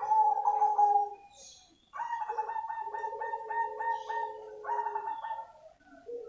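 Zebra dove of the black cemani variety singing: a short cooing phrase, then after a pause a longer rolling phrase of quick repeated coos about two seconds in.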